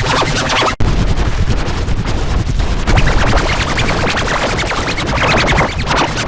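Heavily distorted, stuttering edited audio that sounds like record scratching over a low rumble. It drops out abruptly for an instant a little under a second in.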